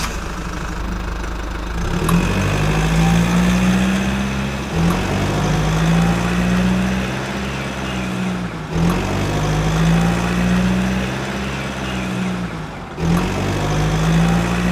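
A vehicle engine running, its pitch rising and holding, then dropping and climbing again in a cycle repeated about every four seconds.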